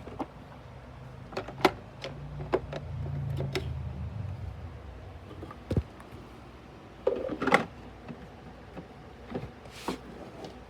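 Clicks and knocks of plastic vacuum-cleaner parts being handled, with a low rumble about two to four and a half seconds in. The loudest knocks come near 1.5 s and around 7 to 7.5 s.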